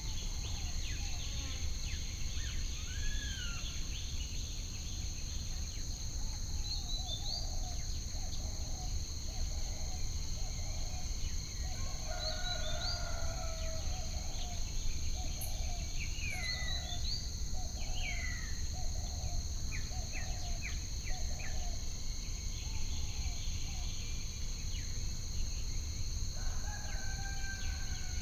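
Ambient nature soundscape: a steady high insect drone with assorted bird chirps and calls, over a constant low rumble. In the middle stretch a run of evenly spaced low call notes repeats about once a second.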